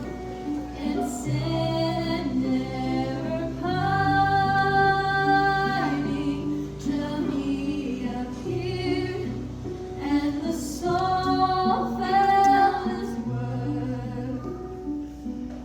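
Christmas show music: a woman singing, holding some long notes, over an instrumental backing with a steady bass line.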